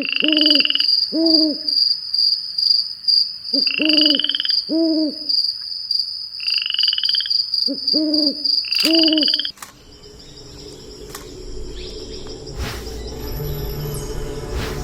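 Night forest sound: a bird gives paired low hoots about every four seconds, each pair with a short rising buzzy call above it, over a steady high insect whine. About ten seconds in this gives way to swelling music.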